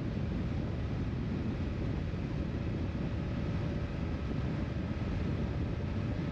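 Motorcycle riding at a steady speed: engine note and wind noise on the microphone. The sound is even, with no revving or gear changes.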